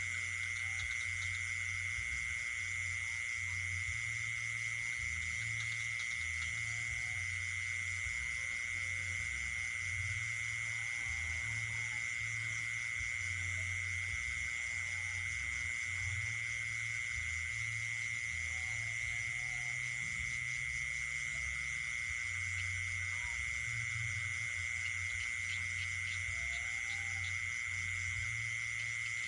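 Night chorus of insects and frogs: a steady, unbroken shrill insect trill, with a low irregular pulsing underneath and a few faint, scattered short calls.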